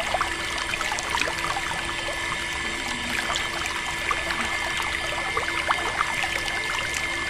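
A small stream of water pouring and trickling, splashing with many little drips, over a steady hum.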